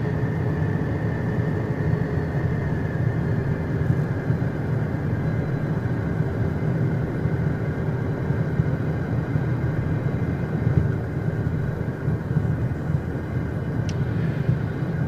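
Steady cockpit drone of the Beechcraft Premier 1A's twin Williams FJ44 turbofans running at low power on the ground, with a thin steady whine over a low rumble. A faint click near the end.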